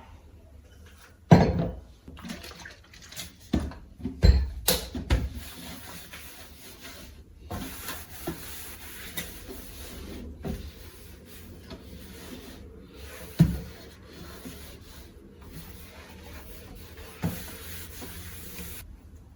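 Kitchen tap running for about ten seconds, starting about seven and a half seconds in and stopping just before the end, with scattered knocks and clatters of dishes and cupboard doors throughout.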